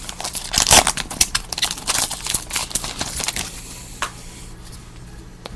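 Football trading-card packs being handled: wrappers crinkling and cards flipped through, a quick run of rustles and clicks that thins out about three and a half seconds in to a couple of single clicks.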